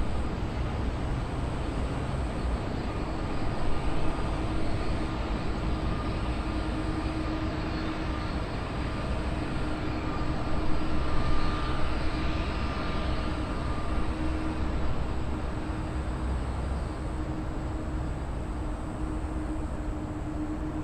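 Jet airliner's engines running with a steady rumble and whine as the aircraft moves past, with a sweeping shift in the higher sound about halfway through.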